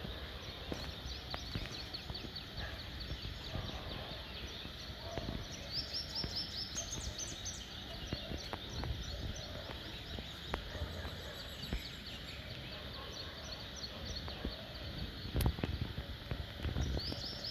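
Wild birds singing: repeated quick series of high chirps and trills over a steady background hiss, with one sharp knock about fifteen seconds in.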